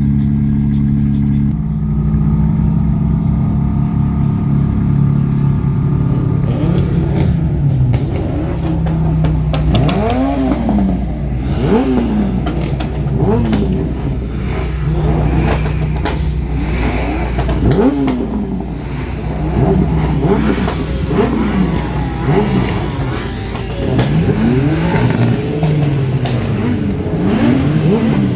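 Car engines running steadily for several seconds, then revved again and again, each rev rising and falling in pitch, one every second or two, some overlapping.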